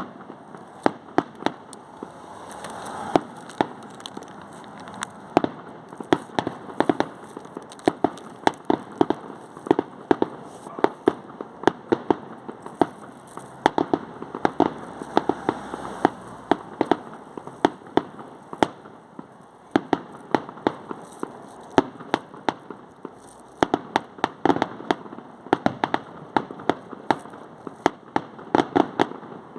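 Fireworks going off continuously: many sharp bangs at irregular intervals, several a second at times, over a steady crackle.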